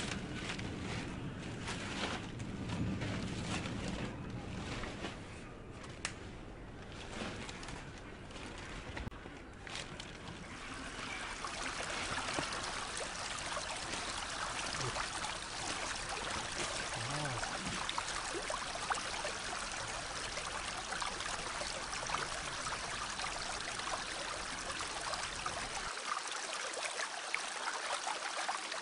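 Running water: uneven sloshing and splashing for about the first ten seconds, then the steady, even rush of a flowing stream.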